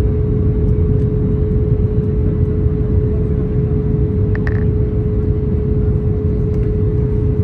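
Airbus A321neo cabin noise heard from a window seat: a steady rumble of the engines and rushing air, with a steady hum running through it.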